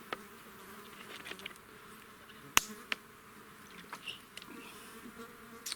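Flies buzzing close around with a faint steady hum, broken by a sharp click about two and a half seconds in and a smaller one just after.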